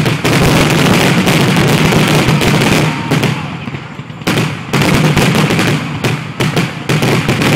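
Fireworks going off in a rapid barrage: a dense run of bangs for about three seconds, a short lull, then another quick volley that thins to a few separate sharp cracks near the end.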